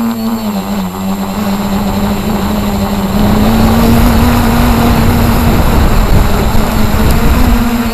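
Radio-controlled model helicopter in flight: a steady rotor and motor whine that drops in pitch briefly about half a second in and climbs back, with a louder rushing of rotor wash from about three seconds in until near the end.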